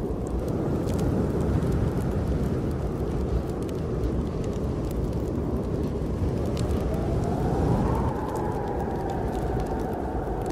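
Snowstorm wind blowing in a steady low rumble, with a howling gust that rises in pitch about seven seconds in and slowly falls away, over light crackles from a wood fire in a fireplace.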